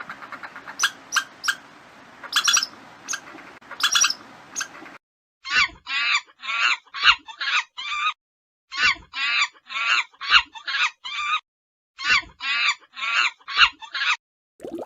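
A small animal's calls: sharp high chirps for the first few seconds, then three runs of about five short squawking calls each, with clean gaps between the runs.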